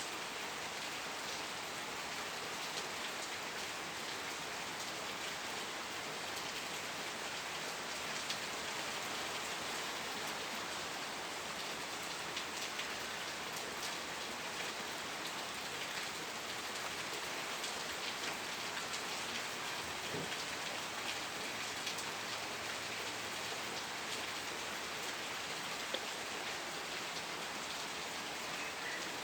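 Steady rain falling: a dense, even hiss dotted with many small drop ticks.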